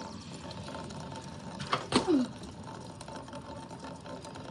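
Rain gutter running with storm runoff: a steady, rapid patter of water. About two seconds in, a brief loud sound slides down in pitch.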